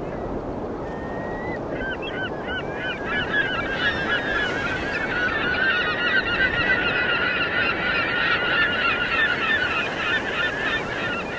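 A flock of birds calling: many short, arched calls overlapping, thickening a couple of seconds in and thinning near the end, over a steady rushing noise.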